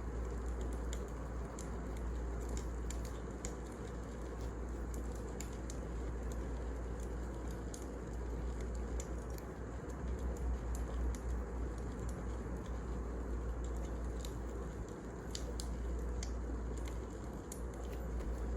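Wood fire burning in a fireplace: a steady low rumble with irregular sharp crackles and pops of burning firewood.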